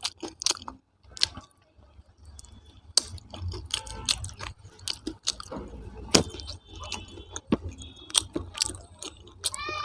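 A person chewing food close to the microphone, with wet lip smacks and sharp mouth clicks at an uneven pace.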